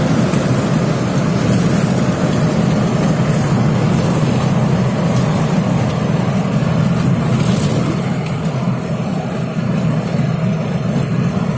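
Mercedes Sprinter 312 van under way: a steady, loud mix of engine and road noise that eases slightly in the last few seconds.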